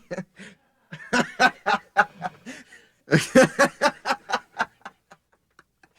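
A person laughing in two bouts of quick, repeated 'ha-ha' bursts, about a second in and again about three seconds in.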